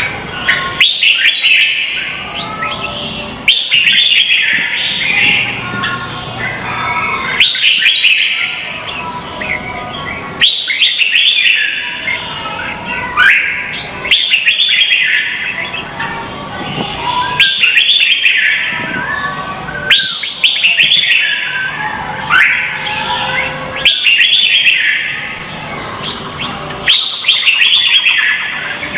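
Red-whiskered bulbuls singing in competition: loud, rapid whistled song phrases delivered one after another, a new phrase about every two to three seconds.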